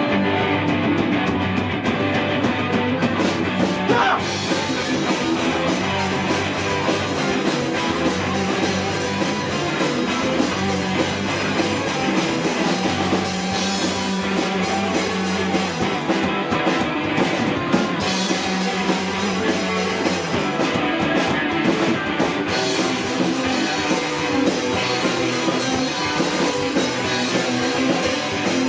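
A rock band playing live: electric guitars with a drum kit. The sound fills out, cymbals joining in, about four seconds in.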